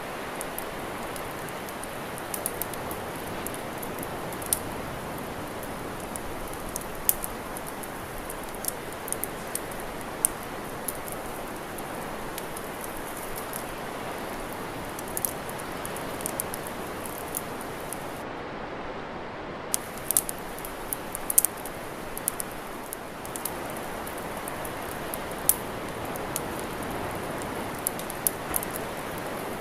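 Wood campfire crackling: irregular sharp snaps and pops over a steady rushing hiss.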